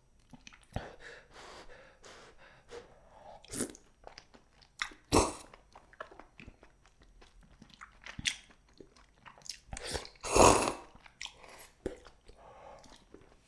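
Close-miked chewing and biting of spicy cheese jjimdak, with soft wet mouth clicks between a few louder bites; the loudest comes about ten seconds in.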